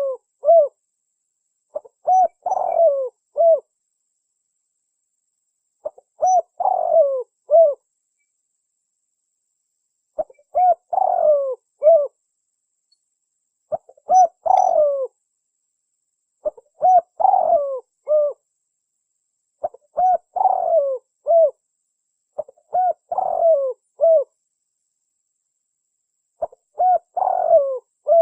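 Spotted dove cooing: a short phrase of several coo notes, repeated about every three to four seconds with silence between.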